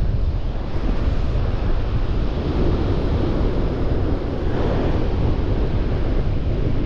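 Strong wind buffeting the microphone over the steady rush of breaking surf, with a wave swelling briefly past the middle.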